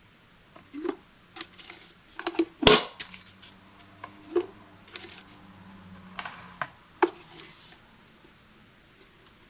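Handling of a stainless steel electric kettle and its parts: a series of clicks, taps and short rustles, with one sharp knock about two and a half seconds in.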